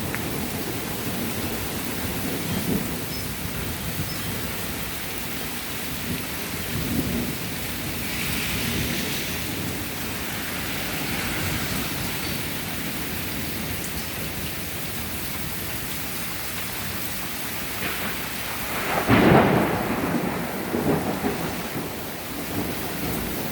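Steady rain pouring down with low thunder rumbling under it, and a louder swell of thunder about nineteen seconds in.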